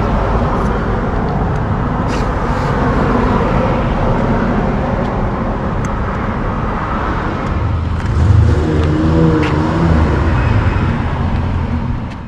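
Road traffic going by steadily, with a louder passing vehicle whose engine rumbles with a wavering pitch from about eight seconds in.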